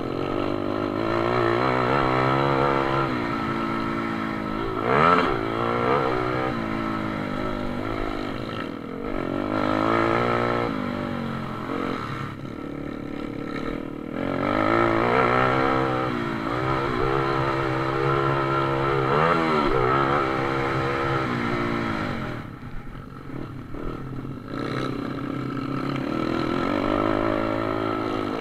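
Pit bike engine racing, revving up through the gears with its pitch rising and falling again and again as it accelerates and backs off for corners.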